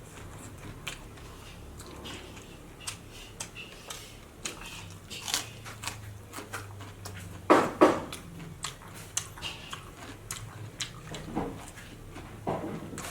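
A person chewing and biting food close to the microphone: a stream of small wet clicks and crunches, with two louder crunches about seven and a half seconds in.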